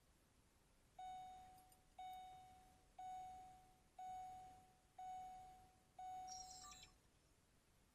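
2007 Ford Expedition's dashboard warning chime dinging six times, about once a second, each ding fading away, sounded with the ignition switched on.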